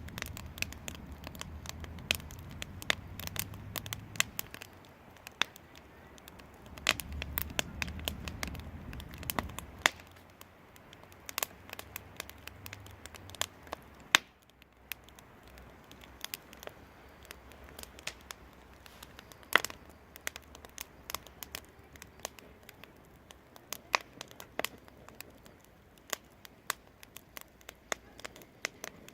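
Wood fire in a fireplace crackling, with irregular sharp pops and snaps throughout and a low rumble under the first half.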